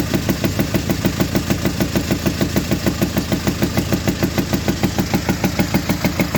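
Hyundai HR 16-valve turbodiesel engine idling with a loud, regular popping from the air filter region, about five beats a second. The cause is broken rocker arms in the valve train.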